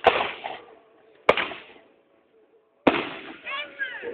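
Fireworks shells bursting: three sharp bangs about a second and a half apart, each trailing off in an echo.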